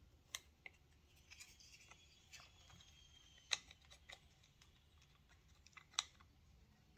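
A few light, sharp clicks of the plastic spool parts of a Worx string trimmer being handled as the spool cap is picked up; otherwise near silence.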